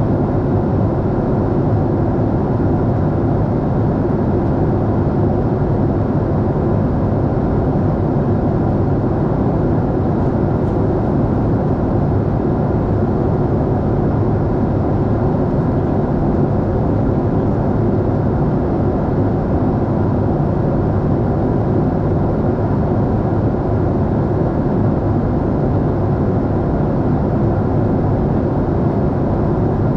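Steady cabin noise of a Boeing 747-8 airliner under way: an even, unbroken rush of jet engines and airflow, heaviest in the low range.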